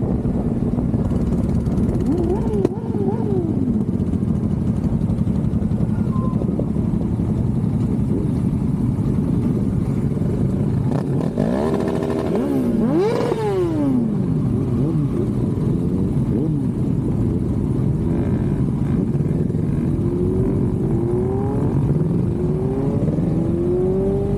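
Many motorcycle engines running together, with engines revving up and down in rising and falling sweeps, the strongest about halfway through.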